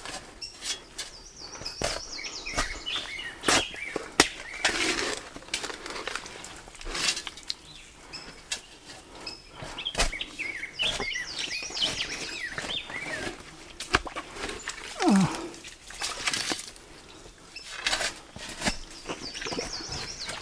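Small birds chirping in repeated short runs, over scattered knocks, clicks and scrapes of work on the ground.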